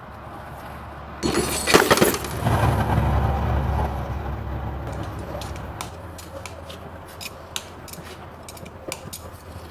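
Farrier's hand tools working a horse's hoof: a loud scraping burst about a second in, then scattered sharp metallic clicks and taps.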